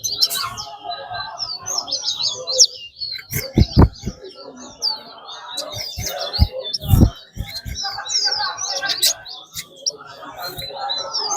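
Caged songbirds in a song race singing rapid, twittering chirps without a break, with a few low thumps about four and seven seconds in.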